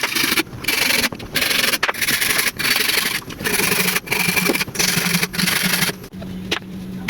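A hand tool rasping on wood in about nine even strokes of roughly half a second each, stopping about six seconds in.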